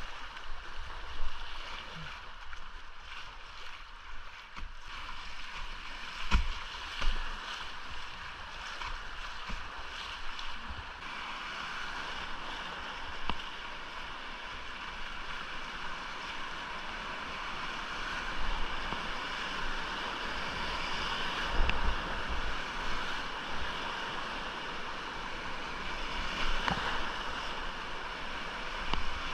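Rushing whitewater of a small, rain-swollen mountain creek, a steady hiss that fills out a little part way through. Now and then a short low thump, which is louder than the water.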